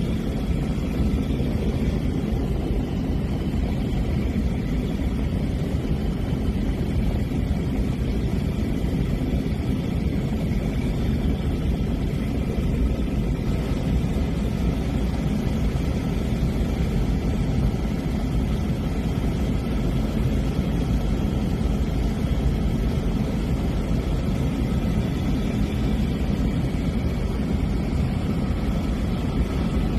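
Steady drone of a small propeller airplane's engine and airflow heard inside the cabin in cruising flight, with faint steady whining tones above the low rumble.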